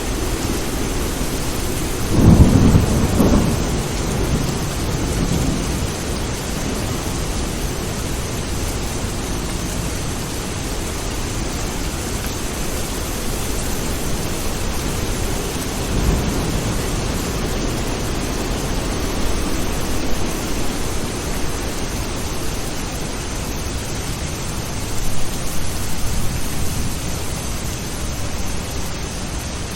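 Thunderstorm: steady rain with low rolls of thunder. The loudest rumble comes about two seconds in and lasts a couple of seconds, with smaller ones around the middle and near the end.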